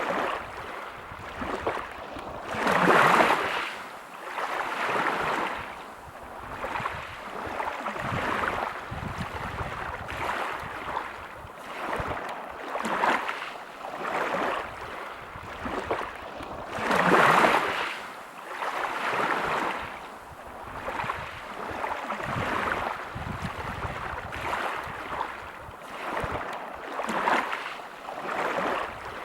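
Sea waves breaking and washing over a pebble beach, in repeated swells of surf noise. The two biggest waves break about three seconds in and again just past the middle.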